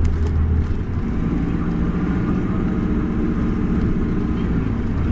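Isuzu Erga city bus's diesel engine running, with a low steady hum. About a second in, a higher steady engine drone rises over it as the bus pulls, easing off near the end.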